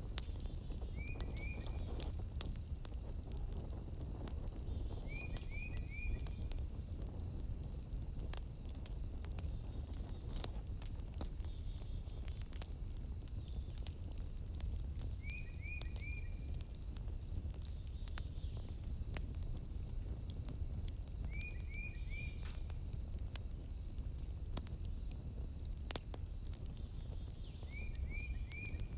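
Wood fire crackling, with scattered sharp pops over a low steady rumble. A steady high-pitched drone runs underneath, and a call of three quick chirps repeats five times.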